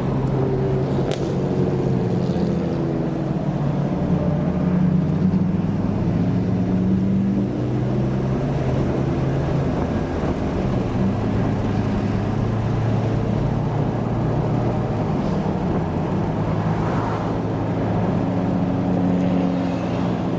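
Old cars' engines running at low revs in a steady, deep drone, their pitch shifting slightly a couple of times.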